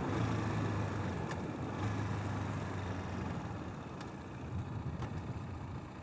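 Brozz/Hawk 250 enduro motorcycle's single-cylinder engine running steadily under way, over rushing air noise, getting gradually quieter over the few seconds.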